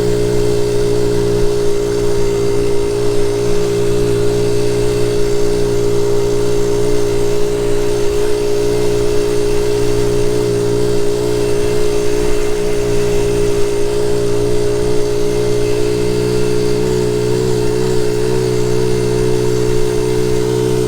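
1976 Honda Z50 J1 Monkey bike's small single-cylinder four-stroke engine running at a steady cruising speed, its note holding an even pitch.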